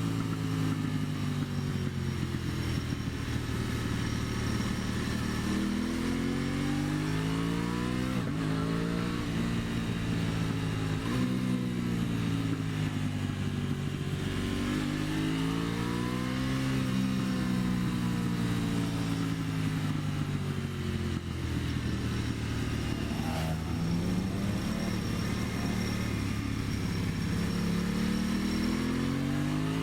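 2023 Aprilia Tuono 660's parallel-twin engine under way on a climbing road: revs rise through the gears with sudden drops at upshifts about eight, eleven and twenty-nine seconds in, and fall away gradually in the middle as the rider rolls off, with a steady rush of wind and road noise underneath.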